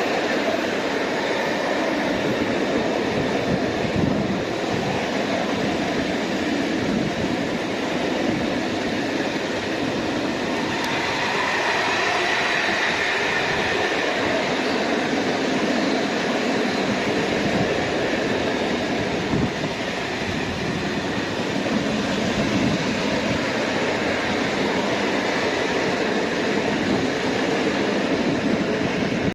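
Freight train hauled by an ET41 electric locomotive running past, its wheels rolling steadily over the rails, with a higher-pitched patch of wheel noise about a third of the way through.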